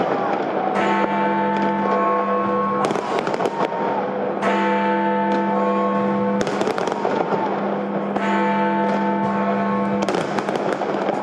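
Fireworks shells bursting in a run of bangs, about one every two seconds, over music with long held notes.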